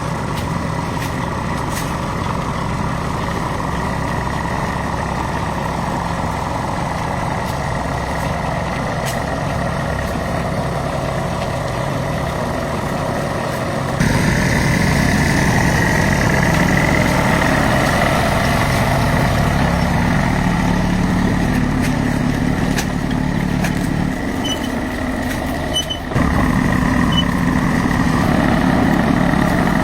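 Truck engine running steadily, with abrupt changes in its sound about 14 and 26 seconds in.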